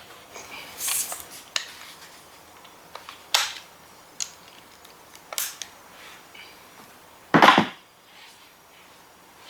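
Metal parts and tools being handled: scattered light clinks and taps, and one loud clank about seven and a half seconds in.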